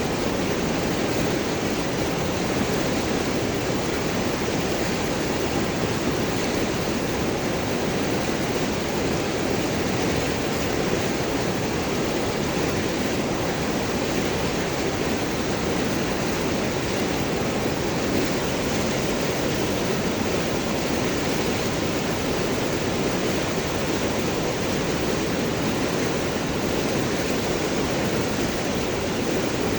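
River water rushing and gurgling over and around large rocks, a steady, unbroken rush.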